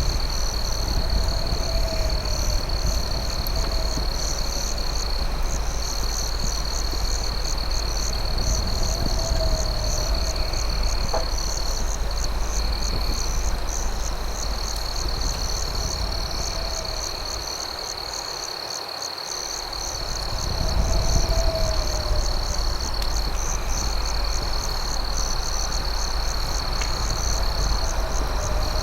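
Night insect chorus: crickets trilling steadily with fast pulsing chirps. A frog gives a short low call every few seconds over a steady low rumble, with one or two faint pops.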